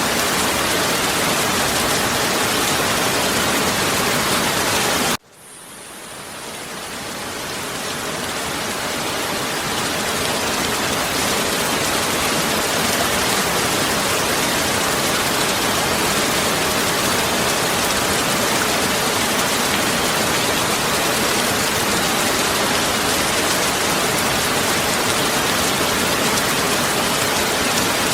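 Heavy rain falling as a steady, dense hiss. About five seconds in it cuts out suddenly and then fades back up to full level over the next several seconds, an edit or loop point in the recording.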